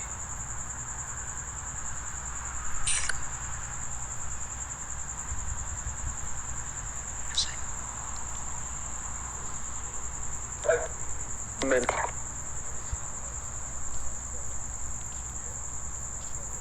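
Crickets chirping in a steady, unbroken high-pitched chorus over a low background rumble. A few brief, faint sounds break in about three seconds in and again near the middle.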